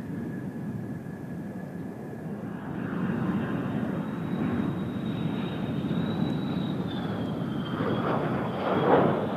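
Jet aircraft engine, a thin high whine over a rushing roar that swells to its loudest near the end, as a jet runs or passes. Low wind rumble on the microphone underneath.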